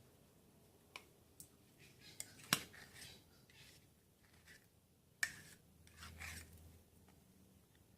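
Hand tools clicking and scraping at irregular intervals, with two sharp clicks about two and a half and five seconds in and a short rubbing scrape soon after the second.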